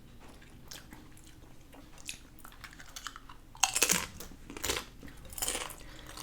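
Close-miked chewing and crunching of crisp food: soft mouth sounds at first, then three loud crunchy bites about a second apart in the second half.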